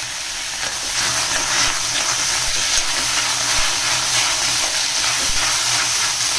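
Chopped onions and tomatoes sizzling in a hot kadhai with no oil, a metal spoon scraping the pan as they are stirred. The sizzle gets louder about a second in.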